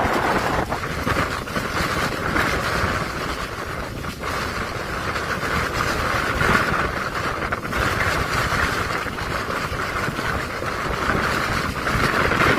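Strong wind from a waterspout-tornado, a loud, steady rushing that rises and falls in gusts, with wind buffeting the microphone.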